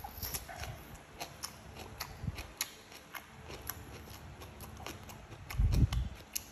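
Close-miked chewing of stir-fried greens: a run of sharp, wet crunches and lip smacks, with one louder, low mouth sound near the end.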